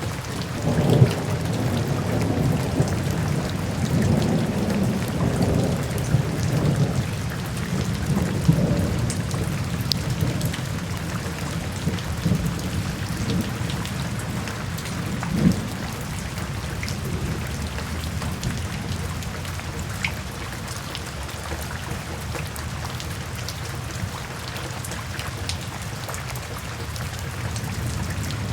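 Steady rain falling, with low rolls of thunder through the first several seconds and another swell about halfway through, then settling into even rain.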